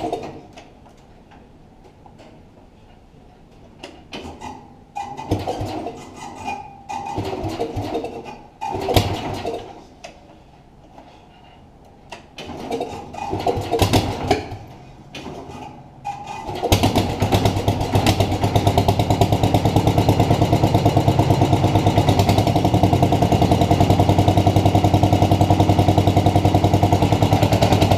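Cold tractor engine being cranked with a jump pack in several short, sputtering attempts that fail to catch. About 17 seconds in it fires and settles into a steady, even run.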